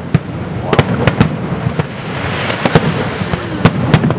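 Fireworks going off: a rapid, irregular run of sharp bangs, about a dozen in four seconds, over a steady background hiss.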